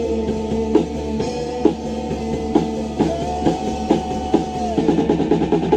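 Rock band playing live: guitar over a drum kit keeping a steady beat, with a held guitar note in the middle and a quick run of drum hits near the end.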